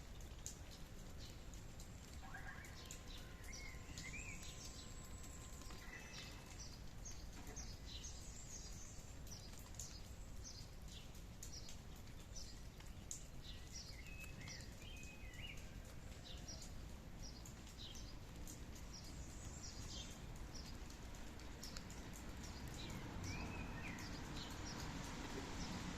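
Wild birds chirping and calling in short repeated notes and a few warbled phrases, over a steady low background noise of outdoor ambience that grows slightly louder near the end.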